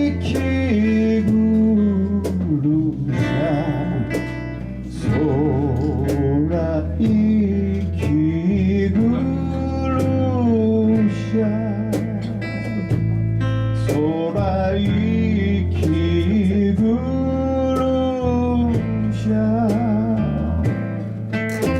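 Live band performing a song: a singer holding long notes with vibrato over guitar and bass.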